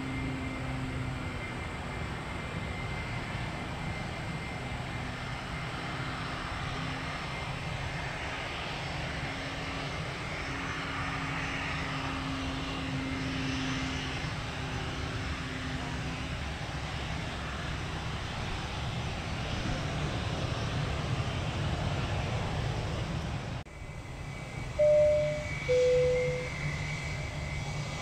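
Airliner engine noise: a steady rumble and hiss with a low hum that swells and fades as the aircraft moves. Near the end the sound cuts off abruptly, then come two short loud beeps, the second lower in pitch.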